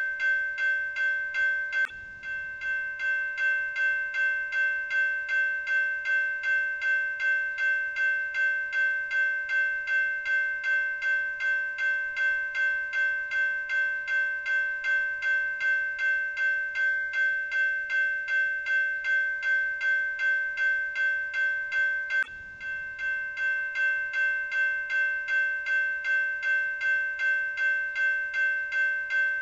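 Railroad grade-crossing bell ringing steadily, about two strikes a second, with two brief breaks.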